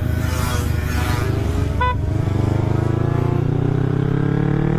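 Kawasaki Ninja 250 carburetted parallel-twin engine through an aftermarket Akrapovic-style exhaust, accelerating under way. The engine note drops briefly near the start, as at a gear change, then rises steadily through the rest, with wind rushing past.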